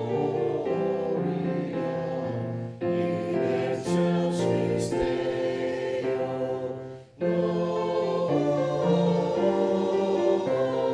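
Church choir singing slow, held chords, breaking off briefly about seven seconds in before the next phrase.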